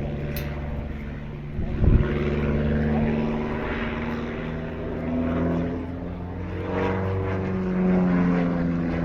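Pitts Special aerobatic biplane's engine and propeller droning overhead, the pitch rising and falling as it manoeuvres through its display. There is a brief low thump about two seconds in.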